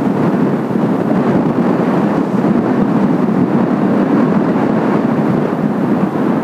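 Steady rushing roar of Kawasaki T-4 jet trainers' turbofan engines, with strong wind buffeting the microphone.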